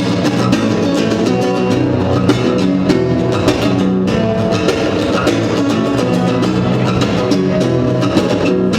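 Live acoustic band playing an instrumental passage: strummed guitar over a steady drum beat.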